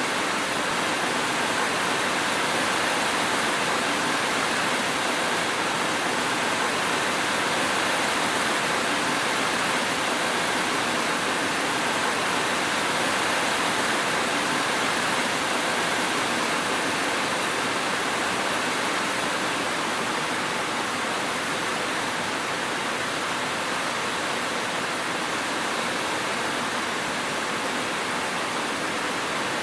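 Steady rainfall, an even continuous hiss with no thunder or separate drops standing out.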